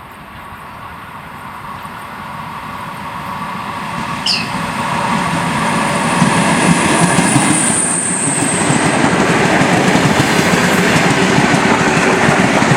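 Electric multiple unit commuter train approaching and passing, its rumble growing louder over the first six seconds and then holding steady. A brief high chirp comes about four seconds in.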